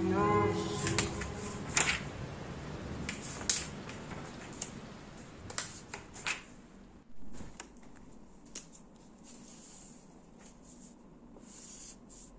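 Background music fading out in the first second, then a string of scattered clicks and light rustles of things being handled in a small room, growing sparser toward the end.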